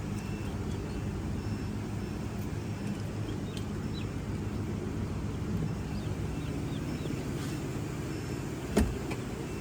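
Steady low machine hum, with a single sharp knock near the end.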